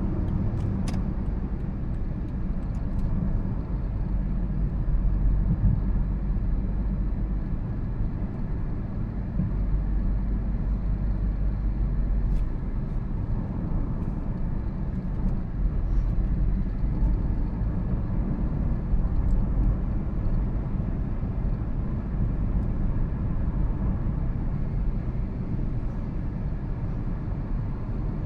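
2013 Toyota Prius on the move: a steady low rumble of road and tyre noise that holds level throughout, with a few faint clicks.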